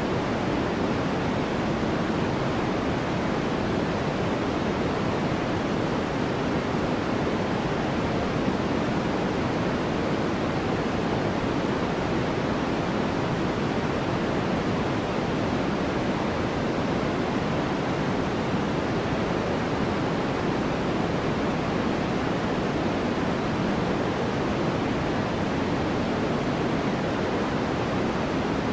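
Steady generated sleep noise: an even, unchanging hiss that never rises or falls, weighted toward the lower pitches rather than bright and sharp.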